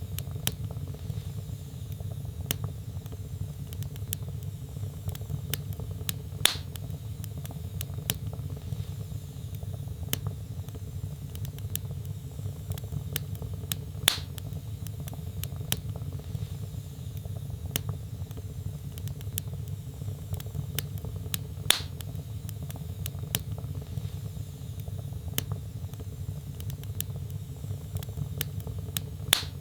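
Wood fire burning in a fireplace: a steady low rumble of flames with frequent small crackles and snaps. Four louder pops come about every seven or eight seconds.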